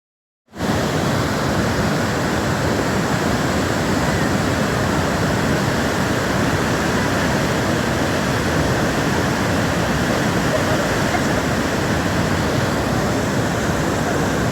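Steady, loud rushing of a powerful waterfall, cutting in abruptly about half a second in.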